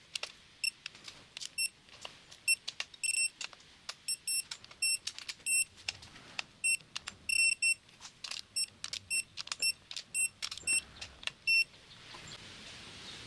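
Ratchet wrench clicking in short, irregular strokes, sometimes two clicks close together, as bolts are run down in a cross pattern to 14 foot-pounds. The clicks stop about twelve seconds in.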